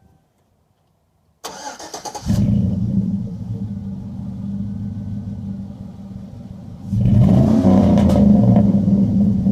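2007 GMC Sierra Classic pickup starting through a Flowmaster Super 44 cat-back exhaust. The starter cranks for about a second, the engine catches with a loud burst and settles to a deep idle. About seven seconds in it is revved and held up.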